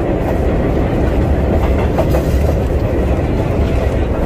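A vintage 1960s New York City subway train running along the track: a steady rumble of wheels on rail with some clickety-clack.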